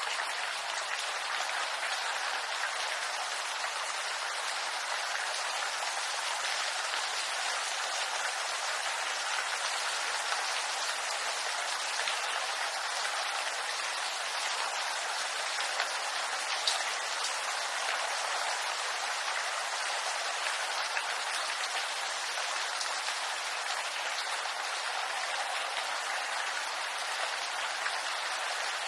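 Steady rain falling through a bamboo grove, an even hiss of drops with scattered sharper drip ticks, one a little louder about 17 seconds in.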